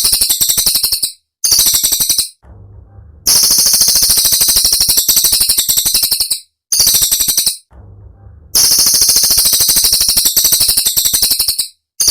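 Cililin songbird's rapid-fire, high-pitched rattling trills, in long bursts of a few seconds broken by short pauses.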